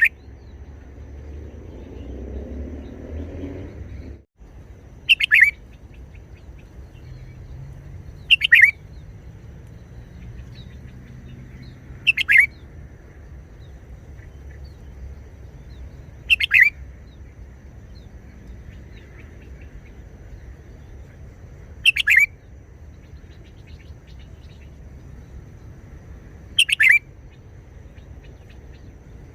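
Red-whiskered bulbul singing short phrases: six brief bursts of song a few seconds apart. A low rumble in the first four seconds cuts off suddenly.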